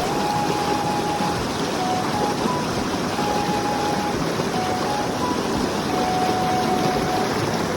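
Steady loud rushing of a mountain stream, with a soft pure-toned melody of background music held in long notes stepping up and down over it.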